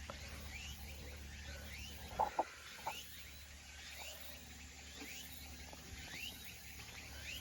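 Faint, repeated short rising chirps of birds calling outdoors, with two sharp clicks a little over two seconds in.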